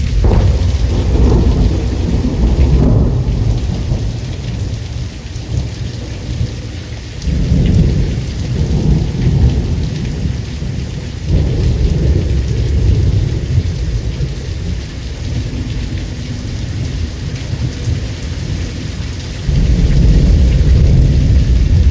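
Steady heavy rain, with rolling thunder that swells and fades in several low rumbles; the last rumble comes in suddenly near the end.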